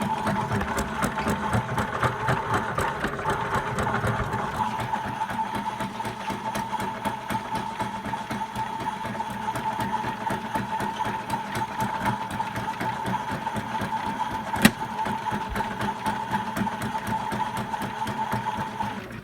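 WashMatic toy washing machine's small electric motor running with a steady whine and a fast, regular rattling clatter, with one sharp click about fifteen seconds in. It stops just before the end.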